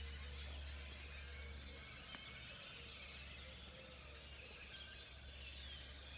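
Many small bird chirps overlapping at a fairly low level, over a steady low rumble.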